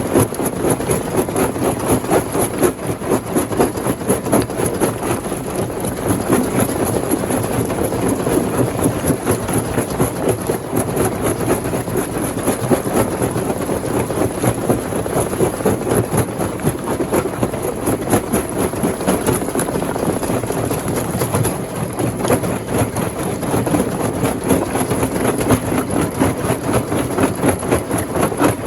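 Heavy rock-crusher machinery running steadily while crushing stone, with a dense mechanical noise whose loudness pulses quickly and unevenly.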